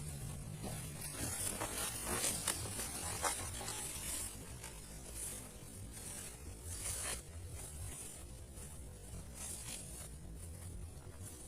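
Irregular rasping, scraping sounds in quick strokes, busiest in the first half and thinning out after about seven seconds, over a steady low rumble.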